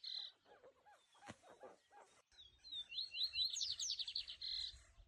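Birds calling: a rapid series of high chirps right at the start and again from about three seconds in, with softer, lower repeated notes in between. A single sharp click about a second and a half in.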